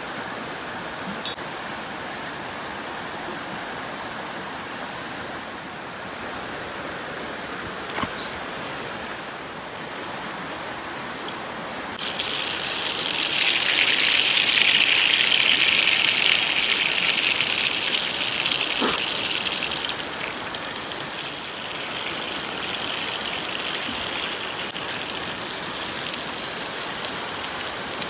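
Butter and olive oil sizzling in a frying pan over a campfire, a steady frying hiss. About halfway through it suddenly jumps much louder and brighter, then eases off, with a few small clicks and pops.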